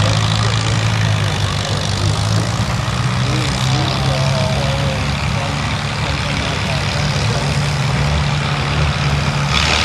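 Antique tractor engine idling steadily at an even, low speed, with faint voices in the background.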